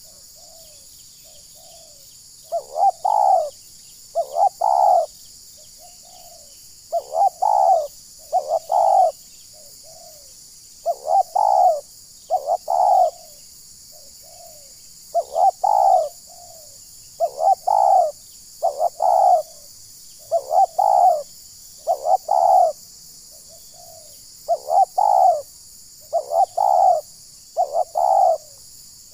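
Spotted dove cooing: repeated phrases of a soft short note followed by two loud coos, about every four seconds.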